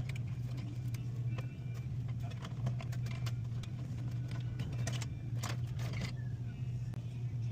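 Steady low hum of running machinery, with scattered light clicks and taps over it.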